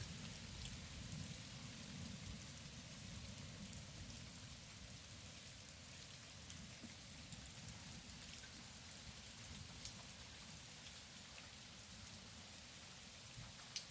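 Steady rain falling, with scattered drips ticking, over a low rumble of thunder that dies away in the first few seconds. A single sharp drip or tap sounds near the end.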